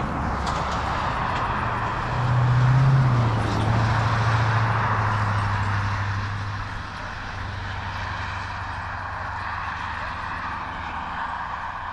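Engine of a passing vehicle: a low steady drone that swells about two seconds in, dips slightly in pitch, then fades to a fainter hum.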